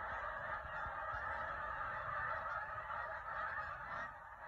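A large flock of geese honking, many calls overlapping into one steady chorus. The flock has just been flushed by a person coming too close.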